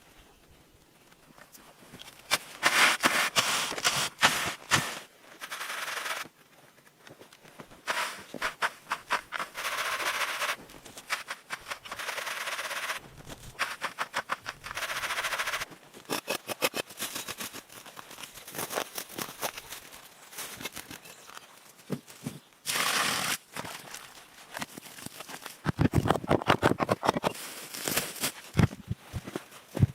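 Hand tools working wood: rapid runs of sharp knocks and clicks, broken by bursts of scraping lasting a second or two.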